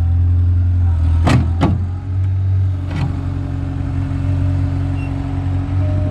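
Skid steer engine running steadily under load, with three sharp knocks about a second, a second and a half, and three seconds in.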